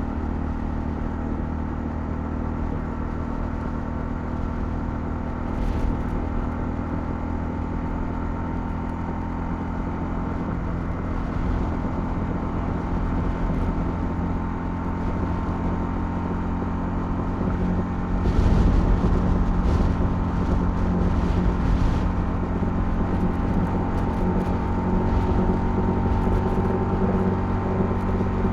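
Honda CL250's single-cylinder engine running at a steady pace while riding, with road and wind rumble; the low rumble grows louder about two-thirds of the way through.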